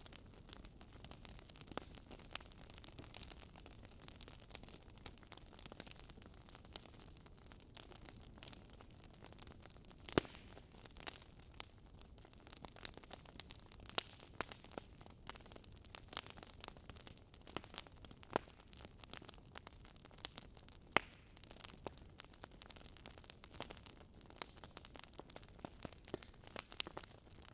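Wood fire crackling in a fireplace: irregular sharp pops and snaps over a low steady hiss, with a few louder pops here and there.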